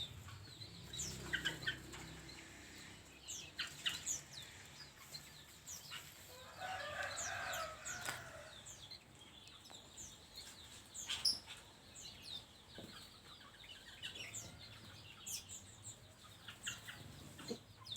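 Small aviary birds chirping on and off, with short wing flutters and a chicken clucking, loudest about seven seconds in.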